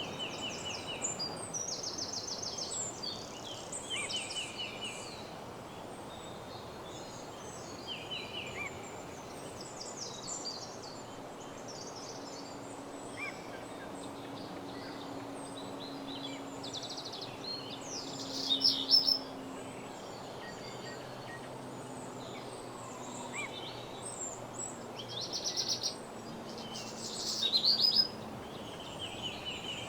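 Several songbirds singing in short, fast trilled phrases over a steady background hiss, the loudest bursts about two-thirds of the way in and near the end. A faint low hum comes and goes in the middle.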